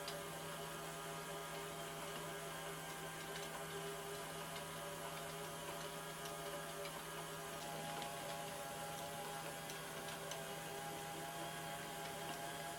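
Small 6 V gearhead motor running a kinetic sculpture's mechanism, giving a steady hum made of several even tones, with a few faint ticks from the 3D-printed plastic parts.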